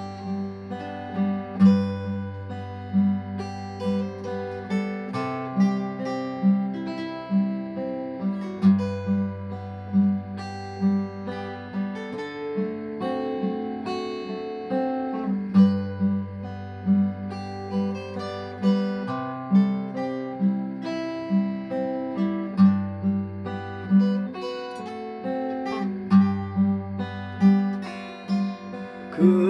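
Instrumental interlude: an acoustic guitar plays a melody over a steady beat of about two pulses a second, with long sustained bass notes underneath.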